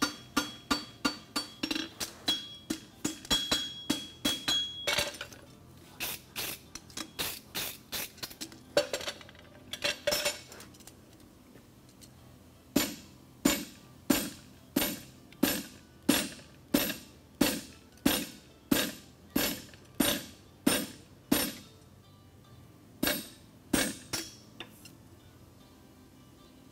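Farrier's hammer striking a hot steel horseshoe on the anvil, shaping the hind shoe. Quick ringing blows, about three a second at first. They thin out and pause, then come back as an even run of slower blows, with a last few near the end.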